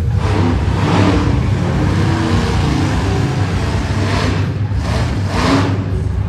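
Monster truck engine running with a heavy steady rumble, revving up in surges about a second in and twice more near the end.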